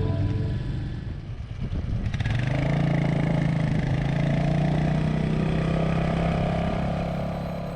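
Royal Enfield Meteor 350's single-cylinder engine running at a steady pace while riding, with road and wind noise. It comes in about two seconds in as the end of the guitar music fades, holds steady, then slowly fades near the end.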